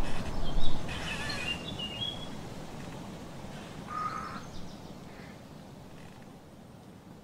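A few short bird calls, about a second in and again about four seconds in, over a low rumbling noise that fades away.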